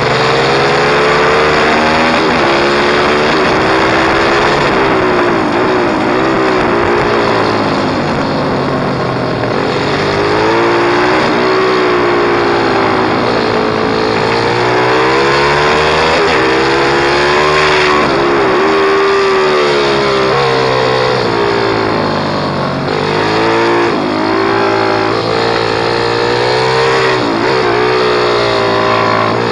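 Pit bike engine revving up and dropping back again and again, its pitch rising and falling every few seconds as it accelerates and eases off.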